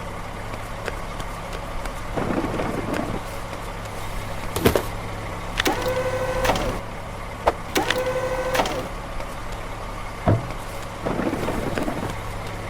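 Garbage truck engine idling steadily, with scattered clanks and two mechanical whines of about a second each, around six and eight seconds in.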